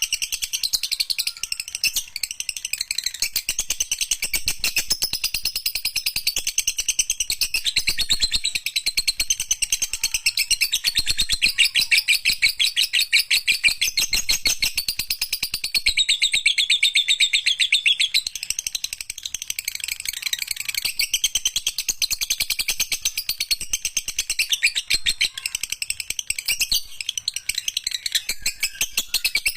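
Lovebird singing a long, unbroken chatter of very rapid, high-pitched chirps: the extended 'ngekek panjang' song that lovebird keepers prize.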